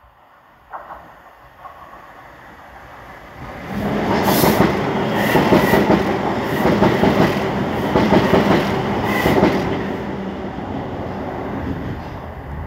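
A train passing close overhead, heard from underneath. It grows loud suddenly about four seconds in, with a dense noise of wheels on rail, repeated knocks and a couple of short high squeals, then slowly fades over the last few seconds.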